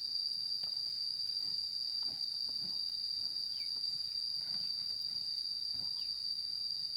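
Steady, high-pitched drone of forest insects at one unchanging pitch, with a few faint clicks and rustles underneath.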